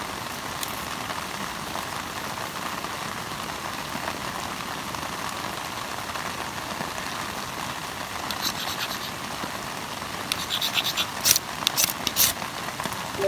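Steady rain falling on a tarp. In the last few seconds there are bursts of sharp crackling clicks.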